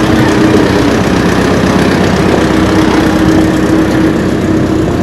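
An engine running steadily with a low hum, over a dense rushing noise.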